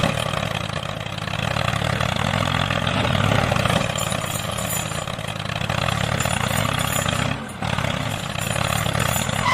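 An engine running steadily, with a short dip about seven and a half seconds in.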